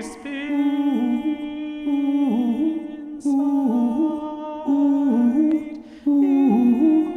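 A cappella choir voices humming in several parts, moving together through short held chords of about a second each, with breaths between phrases.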